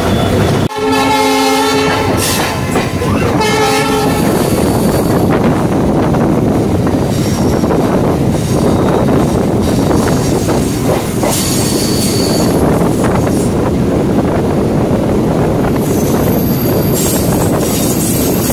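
Indian EMU local train running, heard from on board: a steady rumble of wheels on rail. Two train horn blasts sound near the start, the first about a second long and the second shorter, about three seconds in.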